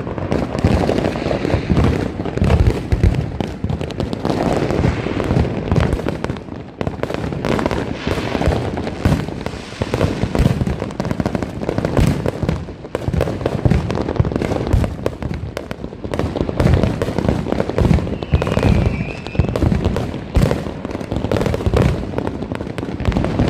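Fireworks and firecrackers going off nonstop: a dense, unbroken crackle of overlapping pops and bangs with deeper booms among them.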